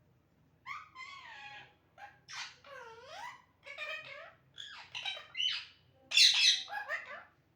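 Pet parrot giving a run of short squawking calls and chatter that swoop up and down in pitch, the loudest burst about six seconds in.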